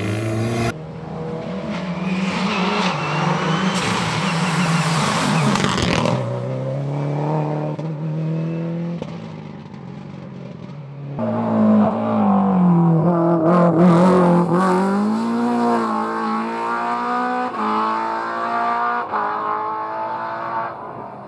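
Rally cars' engines revving hard and passing at speed, their pitch rising and falling through gear changes, in several short shots cut together. A loud rushing hiss comes in about four seconds in and lasts about two seconds.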